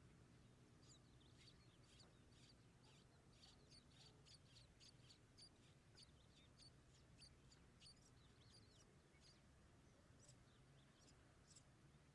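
Faint, quick series of short high-pitched cheeps from nestling birds, about two or three a second, starting about a second in and thinning out near the end.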